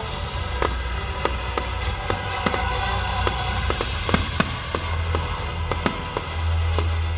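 Fireworks going off in quick, irregular bangs and pops over loud music played for the display.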